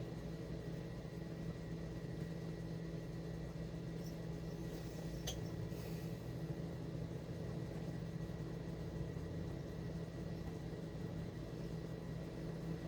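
Steady low mechanical hum, with one faint click about five seconds in.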